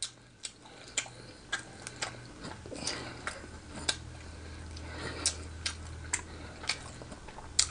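Close-miked mouth sounds of a man eating a pork chop with his hands: irregular wet clicks and smacks from chewing and licking his fingers, about two a second, over a faint steady low hum.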